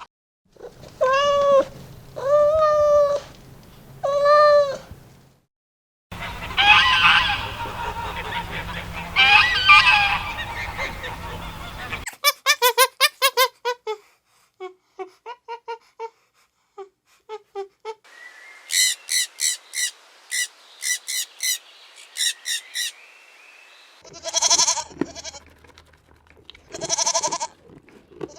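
A run of different farm-animal calls cut one after another: three drawn-out pitched calls, then two harsher, noisier calls, then quick trains of short chirps and clucks, and two long calls near the end.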